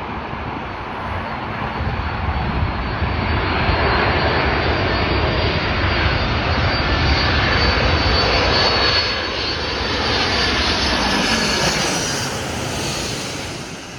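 Four-engine Boeing 747-400 freighter passing on its landing approach. The jet engine noise builds to a peak with a high whine through the middle, then fades near the end.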